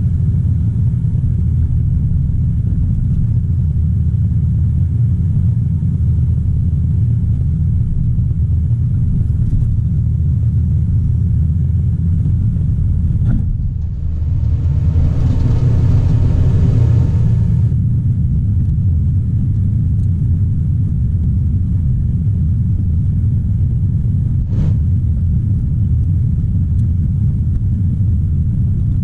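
Caterpillar 973C track loader's diesel engine running with a steady low rumble. About halfway through it briefly gets louder and harsher for about three seconds, then settles back. A couple of short sharp knocks stand out.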